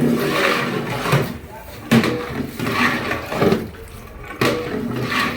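Thick gravy sloshing and splashing in a large cooking pot as it is stirred, in repeated surges about every second or so.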